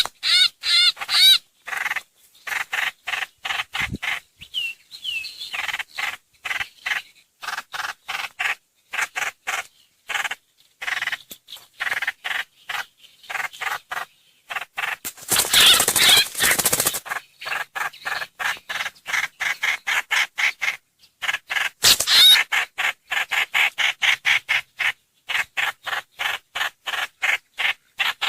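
Trao trảo (hoành hoạch) bird calls played as a lure recording: a fast run of short, repeated notes, about three to four a second. Harsh, noisy chattering breaks in around sixteen seconds in and again around twenty-two seconds.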